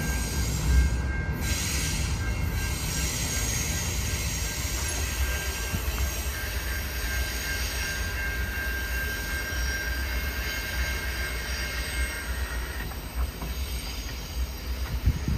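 Coal train cars rolling past on steel wheels, a steady rumble with a thin, steady wheel squeal on top; the squeal and rumble ease off over the last couple of seconds.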